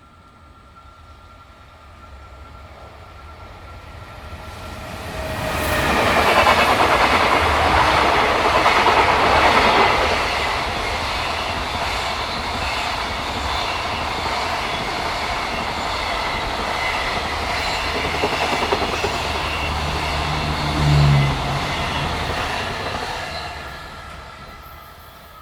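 A long freight train passing close by at speed. The rumble of wheels on rail grows over the first few seconds and stays loud for about seventeen seconds as the wagons go by. It then dies away near the end as the train recedes.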